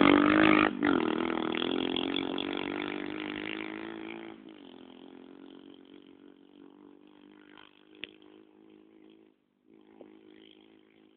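A 110 cc pit bike's single-cylinder four-stroke engine revving as it pulls away under two riders, then fading steadily as it rides off. It keeps running faintly in the distance, with a couple of short clicks near the end.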